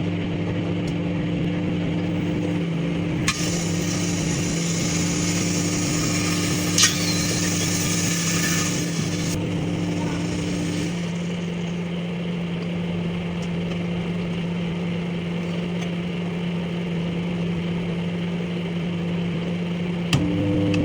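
Microwave oven running with its steady hum while lychees heat inside. A few seconds in, a hissing crackle starts, with one sharp pop partway through, and it stops after about six seconds. A single click comes near the end.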